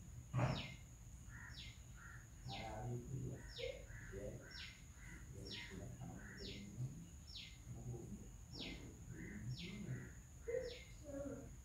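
A bird repeating a short, high call that slides downward, about once every 0.7 s, over a faint steady high-pitched whine with other faint chirps. A single sharp knock sounds about half a second in.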